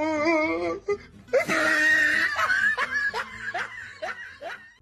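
A person laughing over background music.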